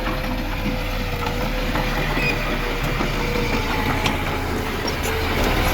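Diesel engine of heavy earthmoving machinery running steadily, with a steady whine above the low engine note.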